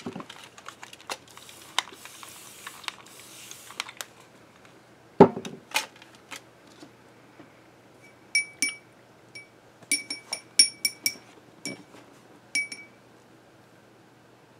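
A paintbrush clinking against a glass water jar: about ten short, bright rings in the second half, as the brush is rinsed for watercolor. Before that, light rustling and clicks of art supplies being handled, and one thump of something set down.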